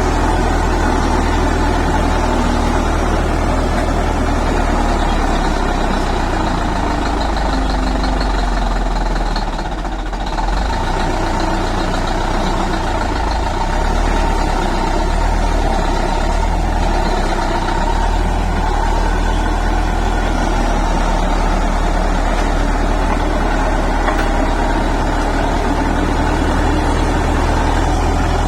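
Heavy diesel engine of a bulldozer running steadily with a deep hum, dipping briefly about ten seconds in before settling back to a steady run.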